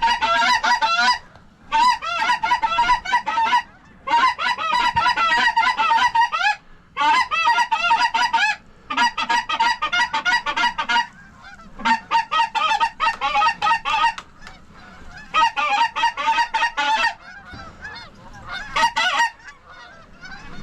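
Goose calls blown in rapid bursts of honks and clucks, each run lasting a second or two with short pauses between, to call in approaching geese.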